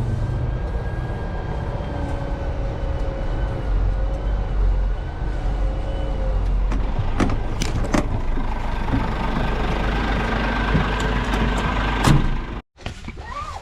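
Lorry engine running steadily with a low rumble, with a few sharp clicks and knocks in the second half. The sound cuts off abruptly shortly before the end.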